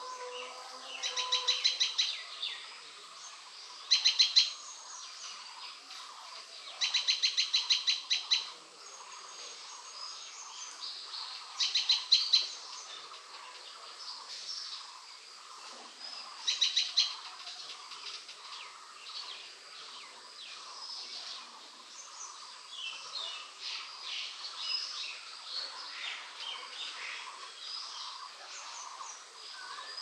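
A bird calling in short bursts of rapid, evenly repeated chattering notes, five loud bursts in the first seventeen seconds or so, followed by fainter scattered chirps from other birds over a steady faint background hum.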